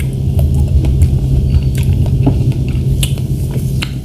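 Close-miked chewing of fresh strawberries, with scattered wet mouth clicks over a steady low hum.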